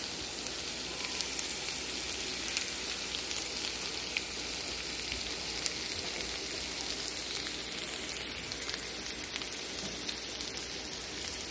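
Diced Yukon Gold potatoes, chicken pieces and peas frying in a skillet: a steady sizzling hiss scattered with small crackles and pops.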